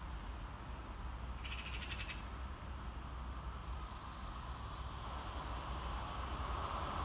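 A bird gives one short, harsh rasping call about a second and a half in, over a low steady background hum. Toward the end, the rising hiss and rumble of a train approaching along the rails grows louder.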